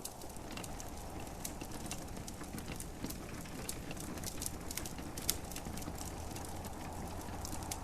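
Wood fire crackling in a fireplace, with frequent sharp pops and snaps, one a little louder about five seconds in, over a steady soft hiss of gentle rain.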